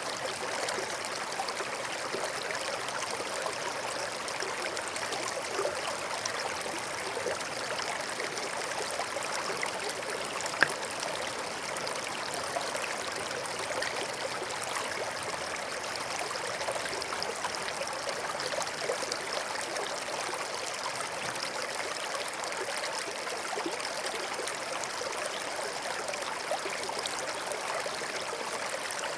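Forest stream flowing with a steady trickling and babbling, with one short sharp click about a third of the way in.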